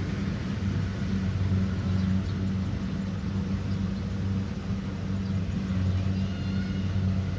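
Kubota DC70 Pro combine harvester running steadily, its engine giving a low, even drone.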